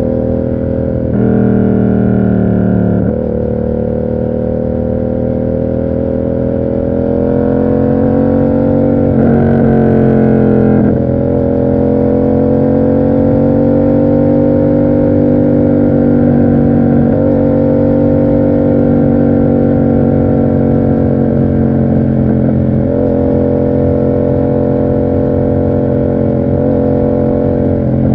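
Yamaha MT-07 parallel-twin engine through an SC Project aftermarket exhaust, under way on the road. The engine note shifts a few times, dipping and rising again about ten seconds in, then holds a fairly steady tone while cruising.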